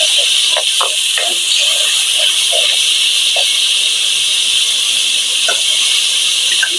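Tomato-onion masala sizzling steadily in hot oil in an aluminium wok, with a metal ladle scraping the pan a few times about a second in and once more near the end as it is stirred.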